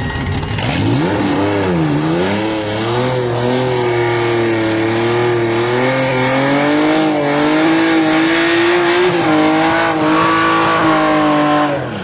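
Holden LC Torana engine revving hard in a burnout, its rear tyres spinning and smoking. It dips once, then is held at high revs with a wavering pitch, and cuts off suddenly near the end.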